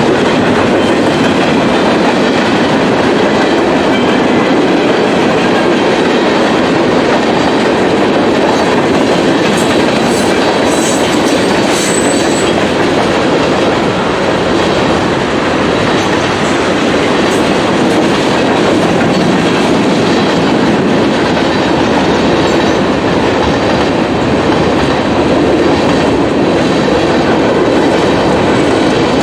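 Freight cars of a CSX manifest train rolling past at speed: a steady rumble with wheels clicking over the rail joints. There are a few brief high wheel squeals about ten to twelve seconds in.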